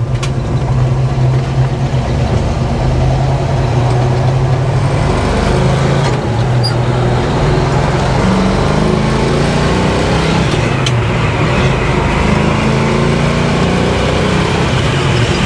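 A 1968 Pontiac GTO's early-1970s Pontiac 400 V8 with a mild cam, running steadily through its aftermarket exhaust while the car is driven, with road noise underneath. The engine note shifts pitch a few times, dipping about six seconds in and rising about eight seconds in, as the car settles at highway cruising speed.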